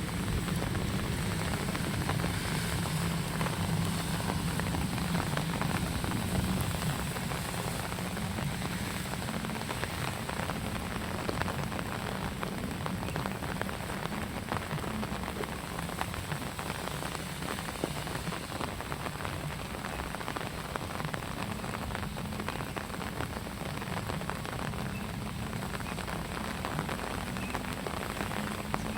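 Steady rain falling, a constant hiss of many fine drop ticks, with a low rumble underneath.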